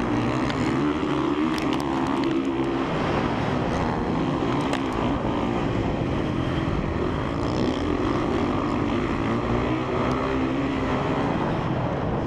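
2017 Honda CRF450R's single-cylinder four-stroke engine under hard riding, the throttle opening and easing off so the engine note rises and falls, with a few sharp clicks.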